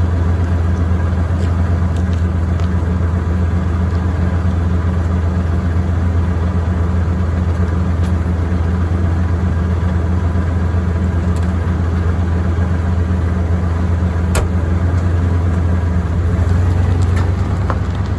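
Motor vehicle engine running at a steady speed: a loud, even low drone that starts abruptly and holds without a break.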